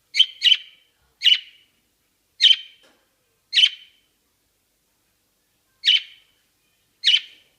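Budgerigar giving seven short, sharp high-pitched chirps, spaced irregularly with pauses between them.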